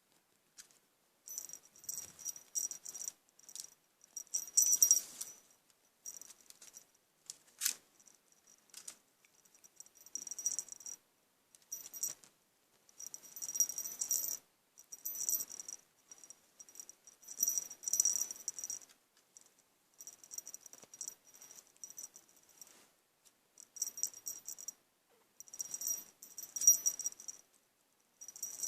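Light rattling and jingling in irregular bursts of one to three seconds, starting and stopping over and over.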